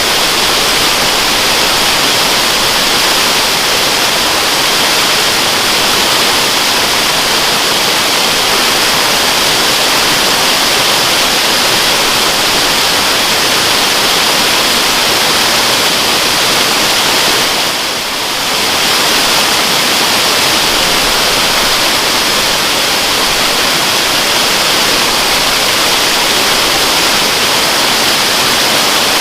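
Waterfall rushing steadily, a dense even hiss heaviest in the upper range, briefly softer about two-thirds of the way through.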